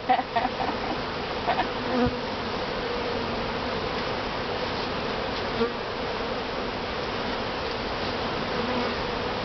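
Honeybees from an opened top-bar hive buzzing steadily in a dense, continuous hum.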